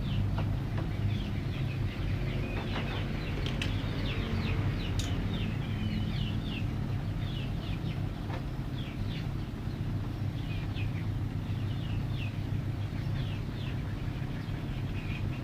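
Small birds chirping repeatedly in quick short calls, over a steady low hum.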